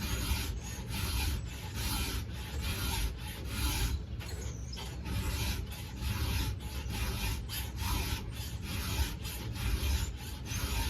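Hand filing a chainsaw chain's cutters with a 7/32-inch round file: rhythmic rasping strokes, about two a second, steel file on chain steel.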